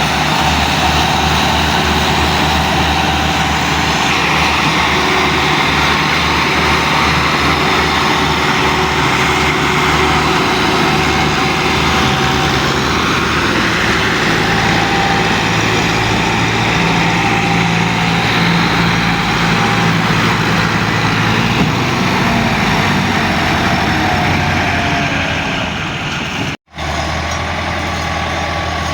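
Tractor diesel engine running steadily under load while pulling a loaded sugarcane trolley. The sound cuts out for an instant near the end, then carries on.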